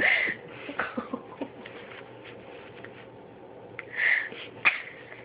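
A dog scuffling as she chases and bites at her tail: two short breathy bursts, one at the start and one about four seconds in, with scattered light clicks in between.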